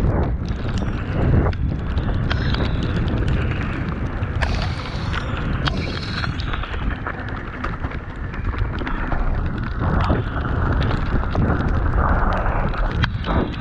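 Mountain bike riding down a wet, muddy trail: wind buffeting the microphone over a steady tyre rumble and constant clicking and rattling of the bike over rough ground, with brief high squeaks about five and six seconds in.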